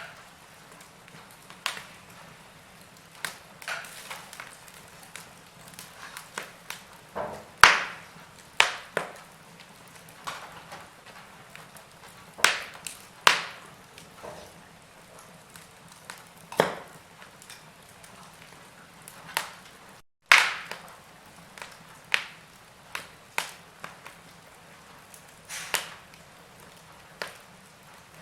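Log fire crackling in a fireplace: irregular sharp pops and snaps of burning wood over a faint steady hiss, the loudest pops about eight and twenty seconds in. The sound cuts out for a moment just before the pop at twenty seconds.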